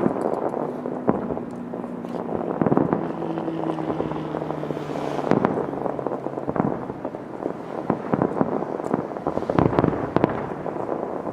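Aerial fireworks bursting: repeated booms and crackles throughout, with a steady low tone underneath for the first five seconds or so.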